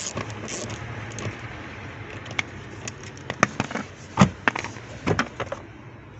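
Scattered sharp clicks and knocks of parts being handled while an SUV's air-conditioning blower motor is taken out, over a steady low background hum.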